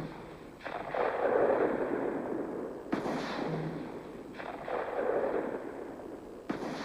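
Four gunshots, about one to two seconds apart, each cracking out suddenly and rolling off into a long echo.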